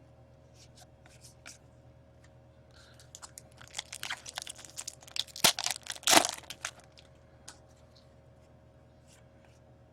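Crinkling and tearing of a foil trading-card pack wrapper being opened by hand, with scattered light crackles, a busier stretch of rustling, and two sharp loud rips just after the middle.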